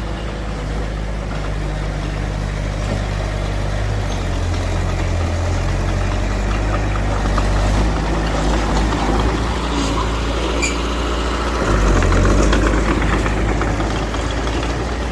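Diesel engine of a Mitsubishi BD2F bulldozer running, its pitch shifting a few times, with a rough clattering noise building up and growing loudest about three-quarters of the way through.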